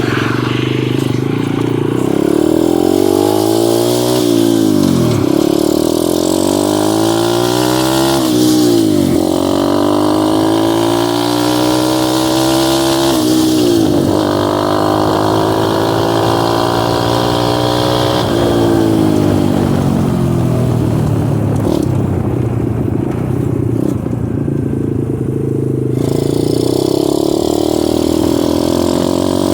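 Dirt bike engine running under way, its pitch climbing and then dropping sharply several times as the throttle opens and closes through gear changes.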